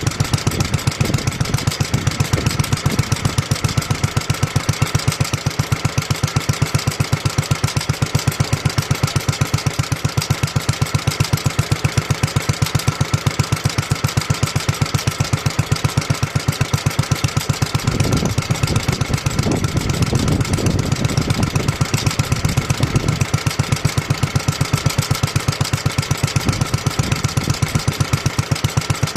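1954 Petter A1 single-cylinder stationary engine running steadily at idle, with an even firing beat.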